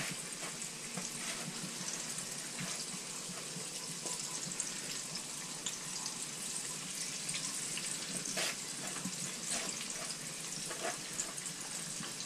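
Cornmeal-coated green tomato slices frying in hot grease in a skillet: a steady sizzle with many small crackles.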